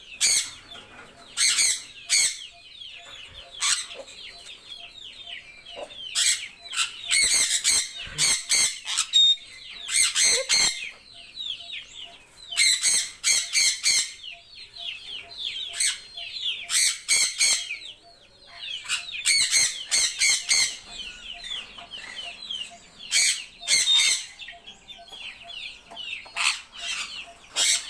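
Several birds calling: short, high-pitched calls in quick runs with brief pauses between them.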